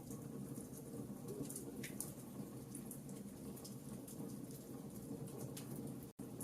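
Campfire crackling: scattered sharp pops and snaps over a steady low noise of burning, with a split-second dropout near the end.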